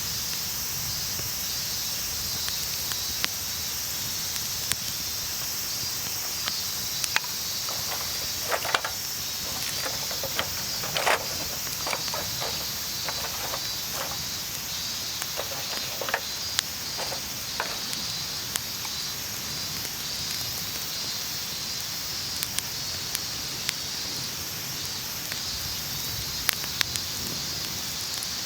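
Outdoor ambience: a steady hiss with a high insect drone, and scattered sharp clicks and snaps, most of them between about 8 and 18 seconds in.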